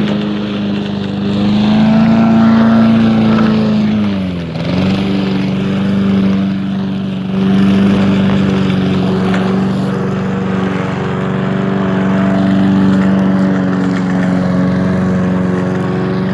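Small petrol lawn mower engine running steadily; about four seconds in its pitch sags sharply as if bogging under load, then picks back up and holds, a sign the mower lacks the power for the job.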